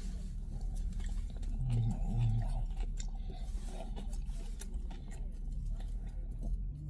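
A person chewing and biting into a döner kebab, with short wet clicks of the mouthful over a steady low hum.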